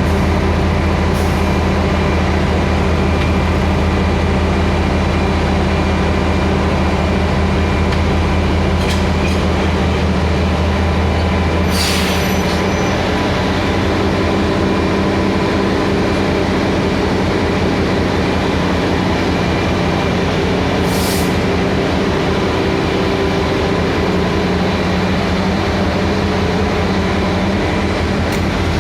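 Diesel-electric locomotive (Taiwan Railway R120) standing and idling with a steady low engine hum, its deepest note dropping away about halfway through. A few brief hisses are heard, the clearest about twelve seconds in.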